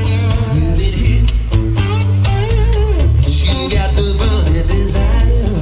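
Live covers band playing: bass guitar and drums keep a steady beat under a gliding melodic line.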